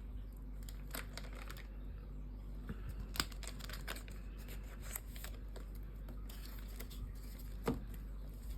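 Pokémon trading cards being handled and sorted by hand, with scattered light clicks and rustles of card and plastic; the sharpest clicks come about three seconds in and near the end.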